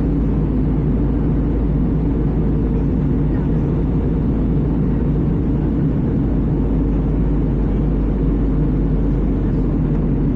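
Steady engine and airflow noise inside the cabin of an Airbus A320 in flight: a constant low rumble with no change in level.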